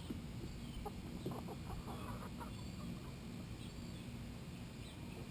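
Backyard chickens clucking softly in short, scattered calls while they feed, with a busier cluster of clucks about a second in.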